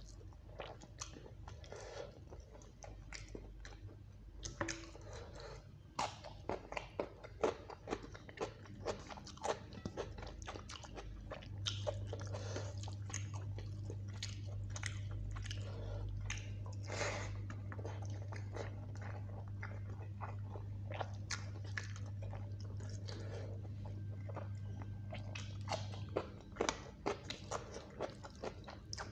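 Close-up wet chewing and lip-smacking of rice and chicken curry eaten by hand, with many short clicking mouth sounds and fingers squishing rice on a steel plate. A low steady hum comes in about twelve seconds in and stops a few seconds before the end.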